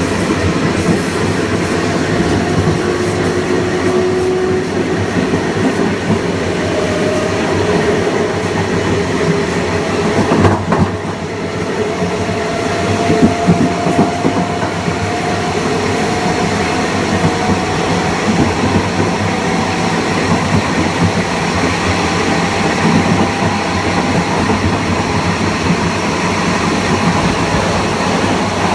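Aboard a Kawasaki M9 electric multiple unit: the Mitsubishi Electric IGBT-VVVF inverter and AC traction motors whine in thin tones that rise slowly as the train gathers speed, over steady wheel-and-rail noise with clatter over rail joints. A single knock comes about ten seconds in.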